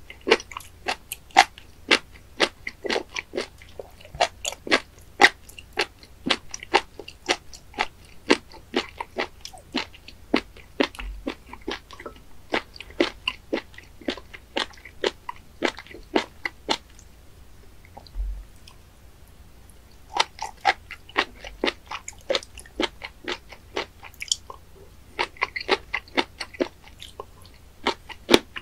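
Close-miked chewing of raw spoon worm (fat innkeeper worm) sashimi: quick, crisp chews, about two to three a second. The chewing stops for a few seconds past the middle, then starts again.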